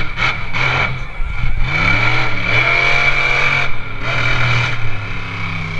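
Monster truck engine revving in repeated bursts, its pitch rising about a second and a half in.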